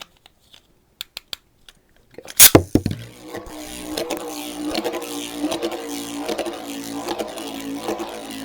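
Lightning L-Drago Beyblade being launched: a few soft clicks as it is set on its left-spin launcher, then a loud sharp rip of the launch about two and a half seconds in. After that the left-spinning top whirs steadily in the stadium, its pitch wavering as it travels around.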